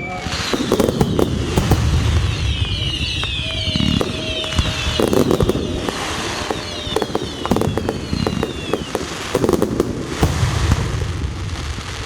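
Fireworks display: repeated low booms of bursting shells mixed with crackling and several falling whistles.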